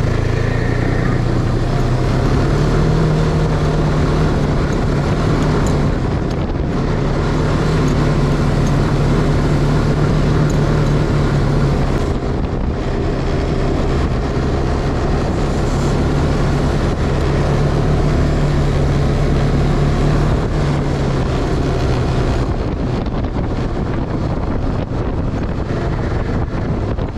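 Snowmobile engine running steadily under way, with wind rushing over the microphone. The engine note fades out near the end while the wind noise carries on.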